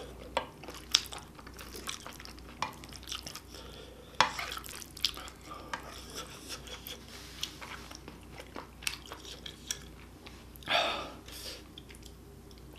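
Close-up chewing and mouth smacks of a spicy octopus stir fry, with a wooden spoon scraping and tapping in the bowl as the food is stirred. A louder noisy rush comes near the end.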